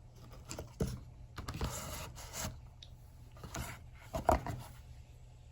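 Scattered light knocks, clicks and rustling of objects being handled, the loudest knock about four seconds in.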